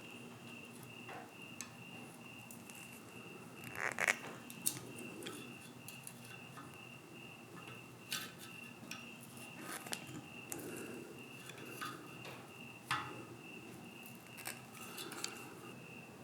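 A cricket chirping steadily in a regular pulsing rhythm, with scattered sharp clicks and clinks of hard objects being handled, the loudest about four seconds in and again near thirteen seconds.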